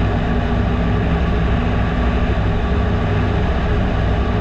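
Piper Super Cub PA-18-150's four-cylinder Lycoming engine and propeller droning steadily, heard inside the cabin, throttled back to reduced power for the landing approach.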